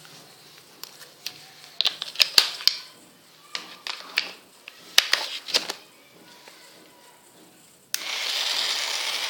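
Plastic clicks and knocks from batteries being fitted into a battery-powered toy's compartment. Near the end a steady hissing noise starts suddenly.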